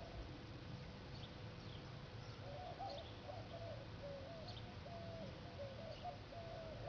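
Faint birds chirping and calling: short high chirps throughout, and a run of short warbling calls from about two and a half seconds in to near the end, over a steady low hum.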